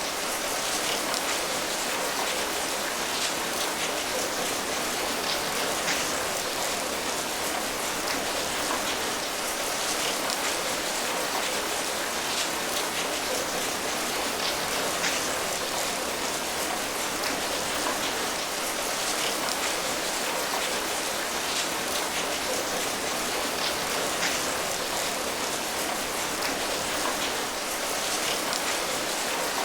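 Steady rain falling, a dense even hiss with many individual drops pattering on a surface.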